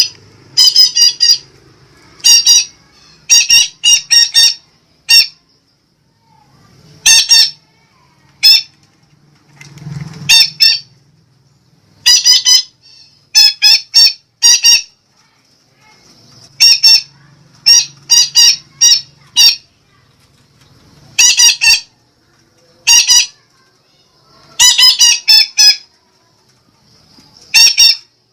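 Sumatran betet parakeet giving loud, short, shrill calls in quick runs of one to four notes, repeated every second or two: a betet lure call.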